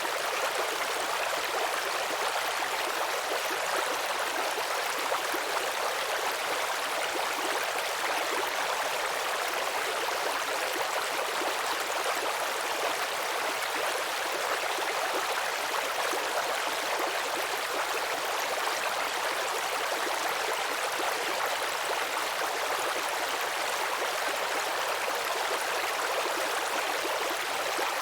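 Small stream babbling and trickling over stones, a steady even rush of water.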